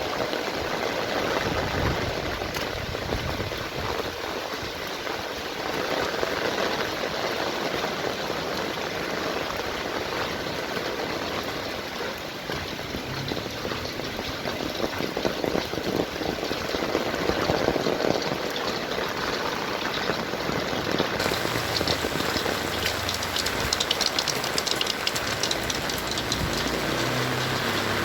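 Heavy rain falling, a steady hiss; about three-quarters of the way through it turns brighter, with dense fine pattering of drops. A low engine hum comes in near the end.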